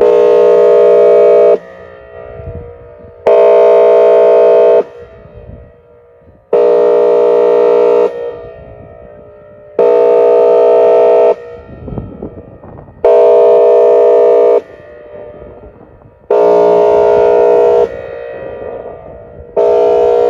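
Outdoor tornado warning siren sounding its airhorn signal: loud, steady horn-like blasts of about a second and a half, repeating about every three seconds with a rich stack of tones and no rise or fall in pitch. Each blast is followed by a fading echo.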